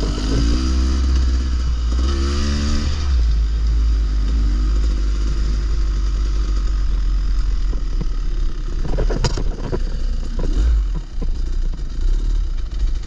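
Dirt bike engine revving up and easing off while riding, over a heavy wind rumble on the microphone. Clattering knocks come around nine seconds in and again a little later.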